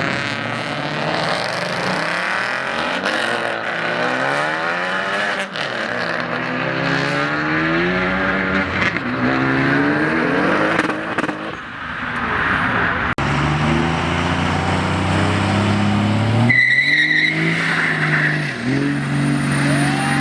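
Car engines revving and accelerating hard, the pitch climbing and dropping again and again, then a lower, steadier engine note in the second half.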